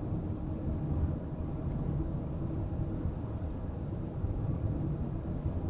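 Heavy diesel engine running steadily, a low rumble without much change.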